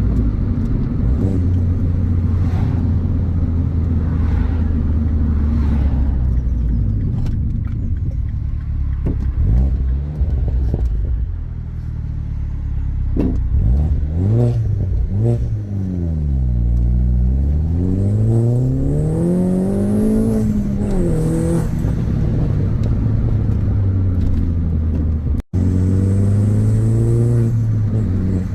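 Mini John Cooper Works turbocharged four-cylinder engine and exhaust under way on the road: a steady low drone at first, then revs rising and falling repeatedly from about halfway, with a few sharp cracks. The sound cuts out for an instant near the end, then the revs climb slowly.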